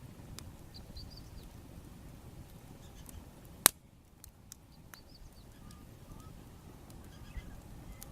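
Wood fire crackling with scattered small pops and one sharp, loud pop a little over halfway through. Faint bird chirps come through a few times.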